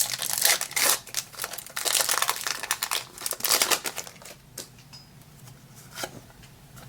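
Plastic-foil Pokémon booster pack wrapper crinkling as it is handled and opened, dense crackling for the first few seconds, then only a few scattered crackles.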